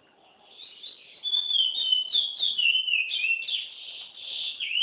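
Green-winged saltator (trinca-ferro) giving a continuous run of warbled, whistled notes that starts softly and grows louder about a second in.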